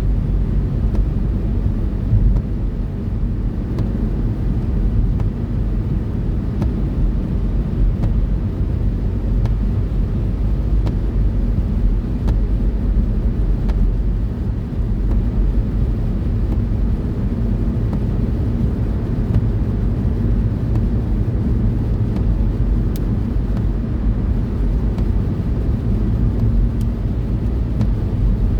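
A car driving steadily, heard from inside the cabin: a continuous low rumble of engine and tyre noise with no change in pace.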